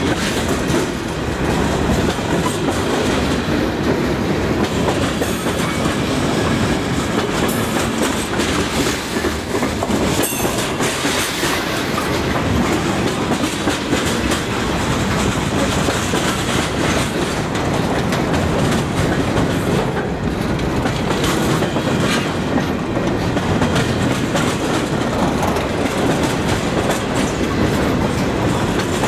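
Freight train of boxcars, covered hoppers and tank cars rolling past trackside at a steady speed. Steel wheels rumble steadily on the rail and click quickly over the rail joints.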